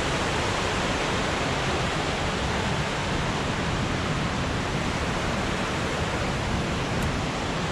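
Steady rushing roar of a large waterfall pouring down a rock face, with a deep rumble under the hiss of the falling water.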